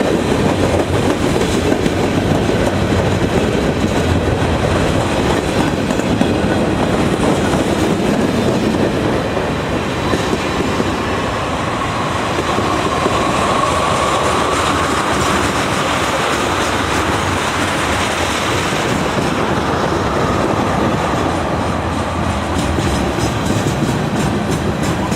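Train cars rolling past on the rails: a steady, loud rumble of wheels with clickety-clack over the rail joints. A faint high wheel squeal rises in the middle.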